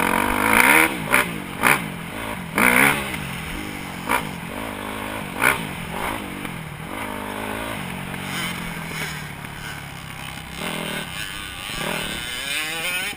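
Dirt bike engine running hard and revving up and down as it is ridden, with several sharp loud bursts in the first half and a rising rev near the end.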